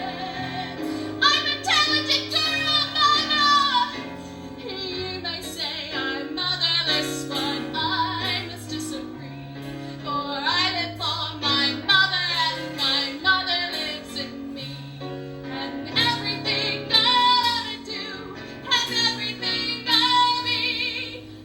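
Musical-theatre singing: high female voices with a wide vibrato over sustained keyboard-style accompaniment chords.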